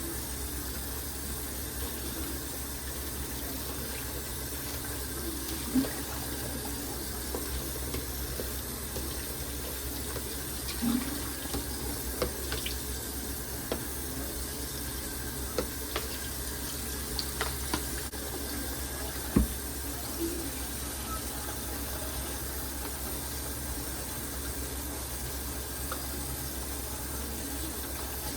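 Tap water running steadily into a sink, with a few short knocks and clinks of dishes now and then; the loudest knock comes about two thirds of the way through.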